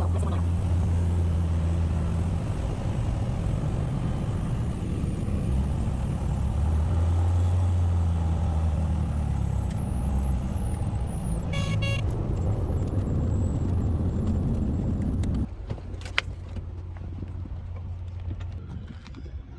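Steady drone of a light aircraft's piston engine and propeller, with a strong low hum. A short beeping tone sounds about two-thirds of the way through. The drone then drops off abruptly to a quieter, thinner noise.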